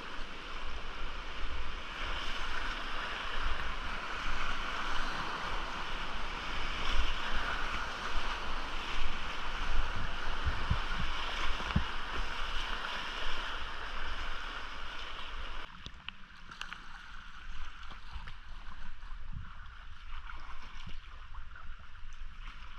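Rushing whitewater of a rain-swollen creek, with wind buffeting on the action camera's microphone. About 16 s in, the sound drops abruptly and gets quieter.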